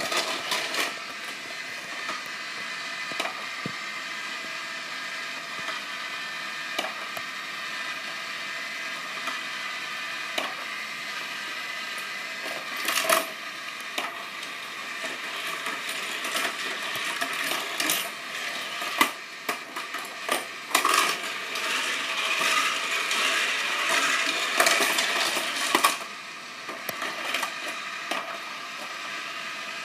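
Die-cast Tomica toy cars clicking and clattering along a plastic playset track over a steady whirring hum, the clatter busiest for several seconds past the middle.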